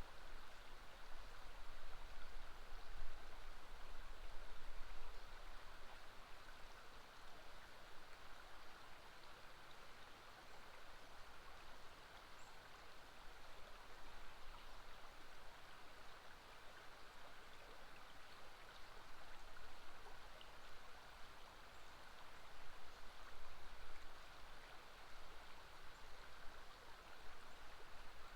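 River water flowing over a bend, a steady even rush with no break.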